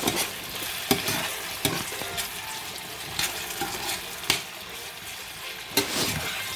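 Chopped onion and bell peppers sizzling in hot oil while being stirred in the pan, with about five sharp scrapes or knocks of the spoon against the pan.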